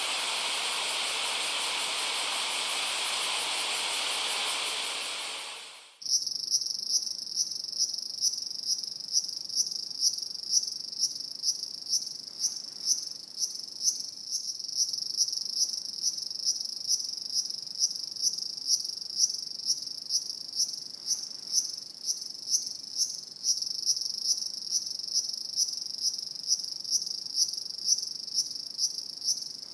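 A steady hiss fades out over the first few seconds. Then crickets chirp in a steady, high-pitched pulse, about two chirps a second.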